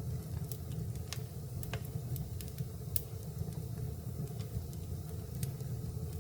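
Fire burning in a fireplace: irregular sharp crackles and pops, one or two a second, over a steady low rumble of the flames.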